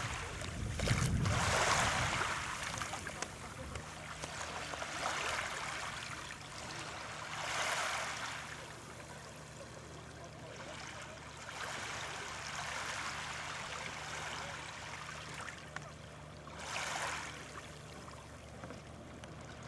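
Small waves breaking and washing up a sandy shore: a steady hiss of surf with a louder swell every few seconds.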